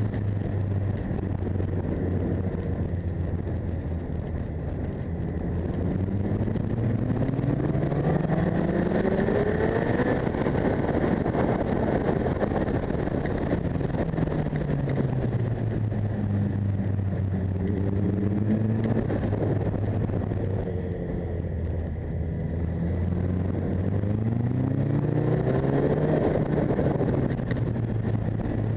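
Motorcycle engine running under the rider, its pitch rising as it accelerates out of the bends and falling as it slows into them, with wind noise on the microphone.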